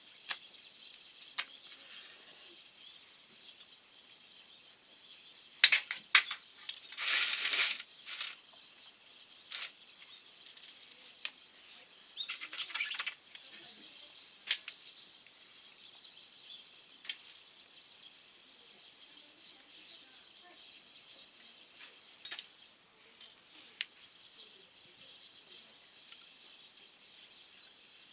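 Wood fire crackling in a small stainless steel wood stove: scattered sharp pops, with denser bursts of crackling about six to eight seconds in and again around twelve to thirteen seconds.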